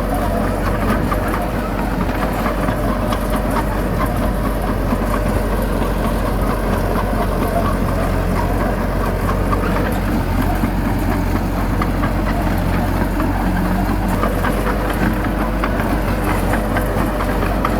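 Heavy diesel engine running steadily at a low, even speed, with a light clatter over it.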